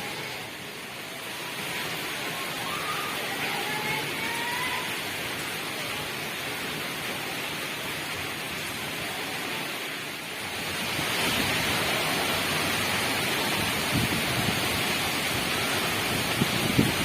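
Heavy rain driven by strong wind, a steady rushing hiss that grows louder about ten seconds in. A few sharp knocks near the end.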